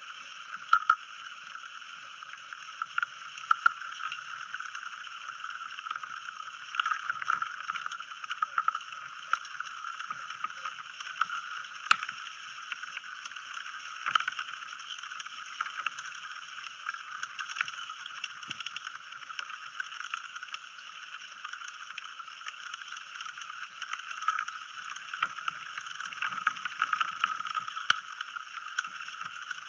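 Bamboo grove in a light breeze, recorded by a small microphone placed inside a broken bamboo stalk: a steady hiss with irregular light wooden clicks and knocks, a wood-chime-like texture.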